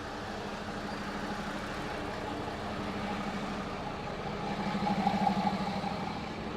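Semi truck engine idling steadily, growing louder for a second or so about five seconds in.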